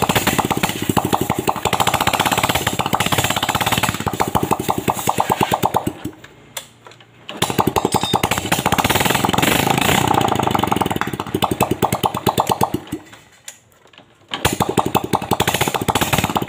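Yamaha Vega ZR's single-cylinder four-stroke engine started with the kick starter and running with a rapid, even putter. It dies away twice, about six and thirteen seconds in, and fires up again within a second or so each time. The kick starter is gripping instead of slipping, now that the worn clutch hub has been replaced.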